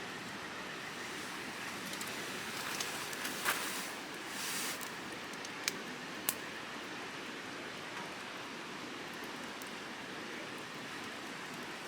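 Wood campfire crackling: a few sharp pops and snaps, about a handful in all, over a steady rushing hiss.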